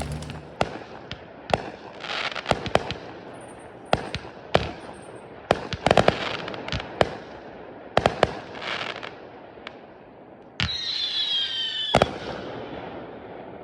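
Fireworks going off: sharp bangs and pops at irregular intervals, each trailing off, then a whistling firework with a slightly falling pitch for about a second and a half near the end.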